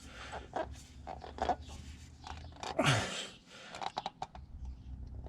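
A new spin-on oil filter being turned by hand onto its mount on a Chevrolet 305 V8: faint scattered scrapes and clicks, with one louder rub about three seconds in, as it is snugged down.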